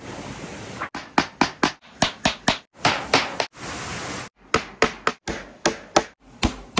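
A quick series of sharp knocking strikes, like hammering on wood, coming in short runs of two to four blows that are broken off by abrupt cuts.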